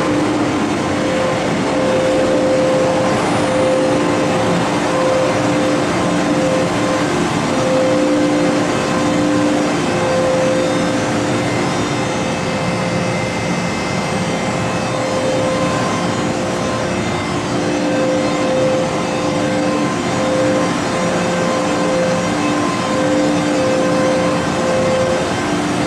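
MTR Kwun Tong Line M-Train electric multiple unit running, a steady rumble with a humming tone that fades in and out.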